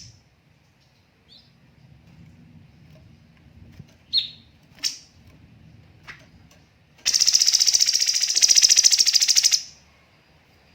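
Cucak cungkok bird calling: a few short, sharp falling call notes, then about seven seconds in a loud, very fast rattling trill (the 'tembakan' burst) lasting about two and a half seconds.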